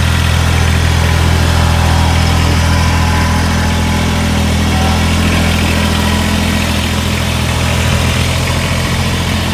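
Kubota BX2380 sub-compact tractor's three-cylinder diesel engine running steadily.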